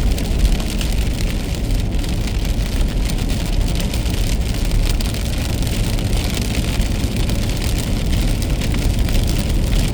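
Car driving on a wet road in the rain: a steady low road and tyre rumble with a haze of rain and many small ticks of raindrops hitting the car.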